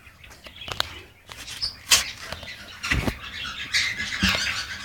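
Eclectus parrots stirring: feather rustling and wing flutters with a few knocks, and a short chirp about one and a half seconds in.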